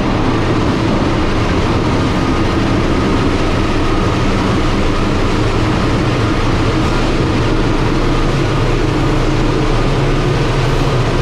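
Passenger train running at speed through a tunnel, heard from inside the carriage: a steady, loud rumble of wheels on the rails with a low, even drone underneath.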